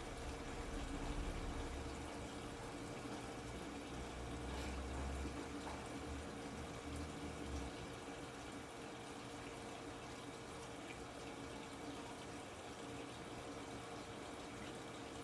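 TCL top-load washing machine filling its drum with water: a steady rush of water with a faint hum. A low rumble underneath fades out about halfway through.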